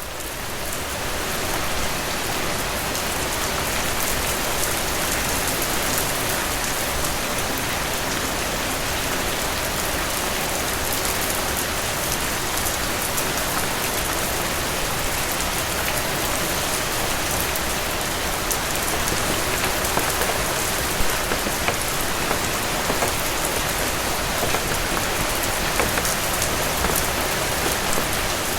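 Steady rain falling on a cabin roof: a dense, even hiss with scattered sharper drop ticks, swelling in over the first couple of seconds and then holding steady.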